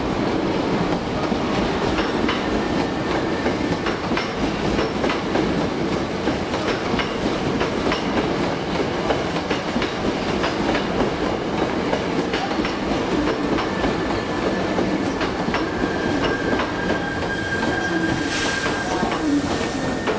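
Hankyu 1300 series electric commuter train pulling into the platform and slowing to a stop: a steady rumble with the wheels clicking over rail joints. A thin brake squeal comes in over the last few seconds, then a short hiss of air near the end.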